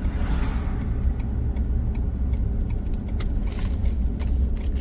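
Steady low rumble of a car driving, heard from inside the cabin. Light irregular ticks and clicks come in over the second half.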